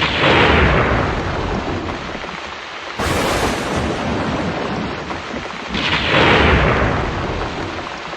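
Thunder: three crashes roughly three seconds apart, each starting suddenly and rolling off into a long rumble.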